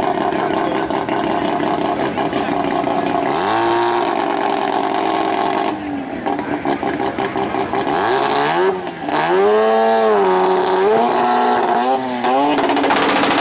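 Mazda RX-7 drag car's turbocharged rotary engine running at a loud rough idle and being revved up and down several times, with a stretch of rapid crackling pops about six seconds in.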